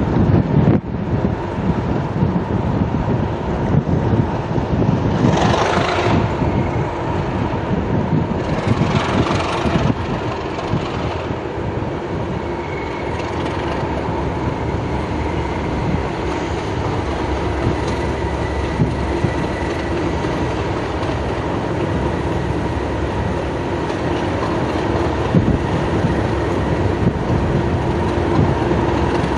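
Class 37 diesel locomotive's English Electric V12 engine running steadily, with a continuous whine over the engine note. Two short hissing bursts come about five and nine seconds in.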